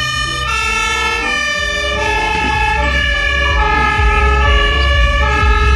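Fire engine siren, held tones stepping between pitches, over a low engine rumble.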